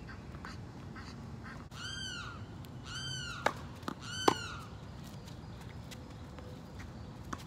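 A bird calls three times, about a second apart, each call a short cry that rises and falls in pitch. Sharp knocks of a tennis ball being struck and bouncing come in between, the loudest about four seconds in.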